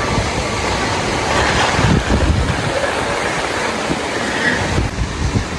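Steady rush of fast-flowing floodwater from an overflowing lake, with wind buffeting the microphone.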